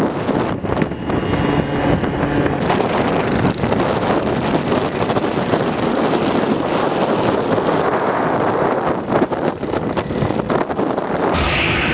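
Minibike engine running while being ridden, largely buried under heavy wind buffeting on the microphone. The sound changes abruptly near the end.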